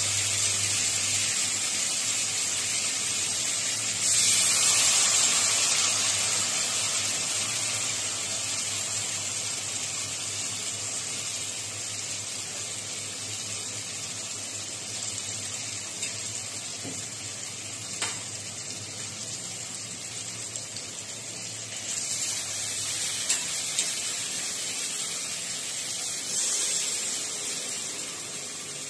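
Marinated chicken sizzling in hot oil in an aluminium kadai. The sizzle surges about four seconds in and then slowly dies down, with a few light clicks along the way.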